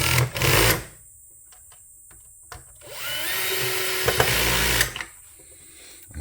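Cordless power drill driving screws, motor whirring in two runs: one that stops about a second in and another from about three to five seconds, its pitch sliding as the speed changes.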